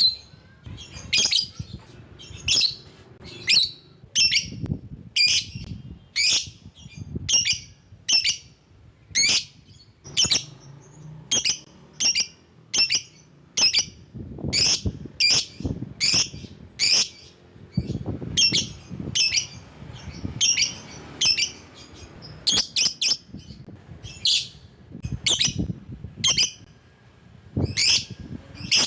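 Lovebird calling: a long series of short, shrill chirps, repeated about once or twice a second.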